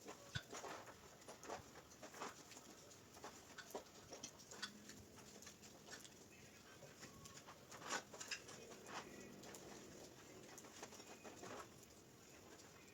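Faint, irregular clicks and short scrapes of hand work on tile, a few each second, with a faint low hum twice in the middle.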